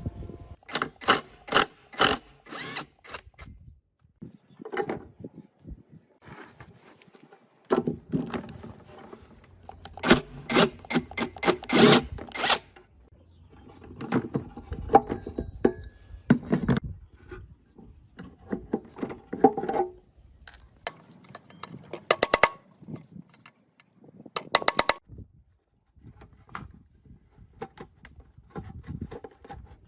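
Hand tools working on metal parts: irregular clicks and knocks with short stretches of scraping and rubbing, a loud cluster about ten to twelve seconds in.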